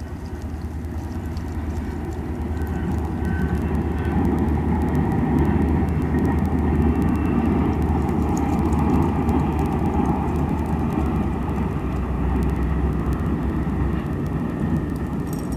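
Diesel-hauled VIA Rail passenger train crossing a steel truss railway bridge: a steady low rumble with an engine hum. It grows louder over the first several seconds as the train comes onto the bridge, then eases slightly near the end.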